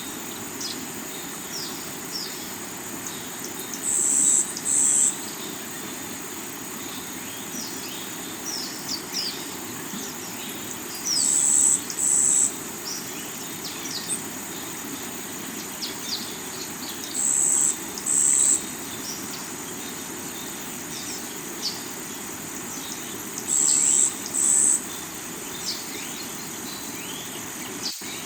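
Forest soundscape over steady rushing river water: birds chirp and a high insect trill runs throughout. A loud, high buzzing call comes in pairs four times, about every six seconds.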